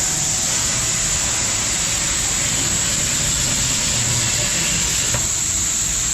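Industrial laser cutting machine running, a steady high-pitched hiss with a low rumble underneath.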